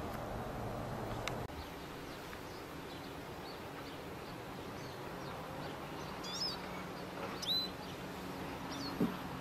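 Outdoor ambience with small birds chirping several short calls past the middle, over a faint steady low hum. A louder low rumble in the first second and a half cuts off abruptly at an edit, and there is a single soft knock near the end.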